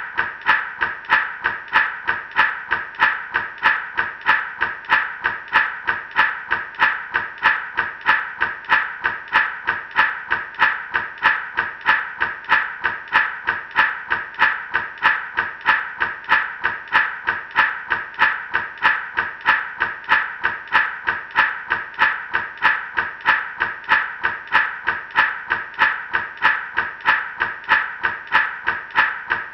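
Gourd rattle shaken in a steady, even rhythm, each stroke a short burst of seeds rattling inside the gourd, at a constant pace and loudness throughout.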